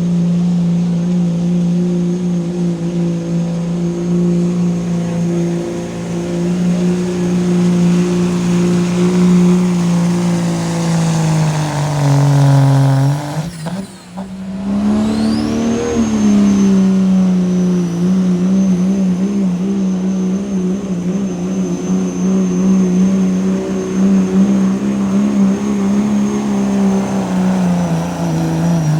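Pulling truck or tractor engine running hard at high revs under load for a long stretch. About halfway through, the pitch sags and the sound drops off briefly. The engine then picks back up with a rising high whine and holds steady again.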